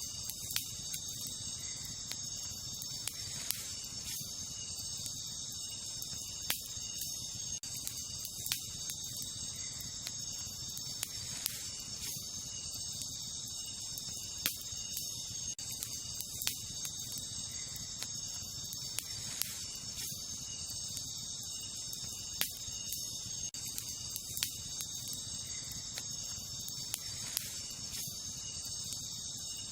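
Wood campfire crackling, with sharp pops every second or two, over a steady high-pitched chorus of night insects.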